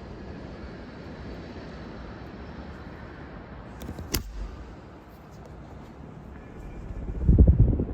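Casablanca Spirit of Saturn ceiling fan running at its sixth speed: a steady rush of moving air with low rumble on the microphone. A single sharp click about four seconds in, and a louder low rumble rising near the end.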